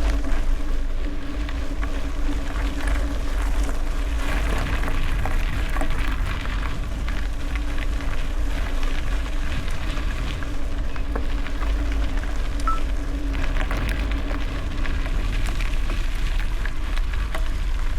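Bicycle tyres rolling over gravel, a steady crackling hiss of small ticks, with wind rumbling on the microphone and a faint steady hum underneath.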